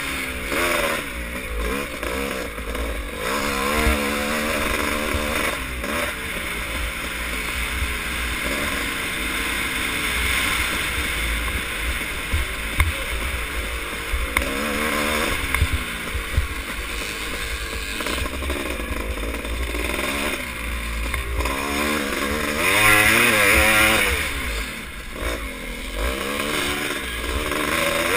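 Yamaha YZ465 single-cylinder two-stroke motocross engine revving up and falling back again and again under race load, over a steady heavy rumble of wind. It is loudest at about two thirds of the way through.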